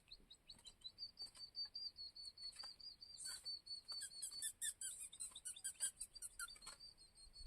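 Songbird calling faintly: a fast run of short high chirps, about five a second, joined from about four seconds in by quicker, more varied twittering notes.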